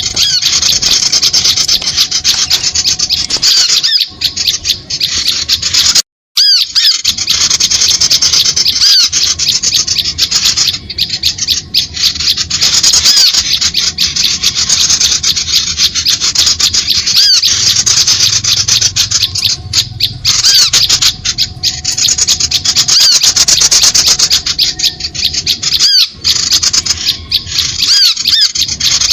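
Small-bird lure call recording: dense, rapid, high-pitched chattering and scolding calls of small birds, played non-stop to draw birds in. There is a brief dropout about six seconds in.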